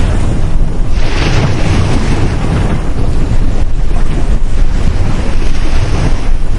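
Ocean waves breaking on a beach, with a wave washing in about a second in, and heavy wind buffeting the microphone throughout.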